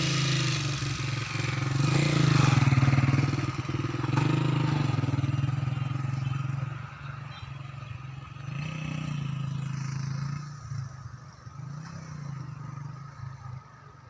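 An engine running, its pitch rising and falling, louder in the first half and quieter after about seven seconds.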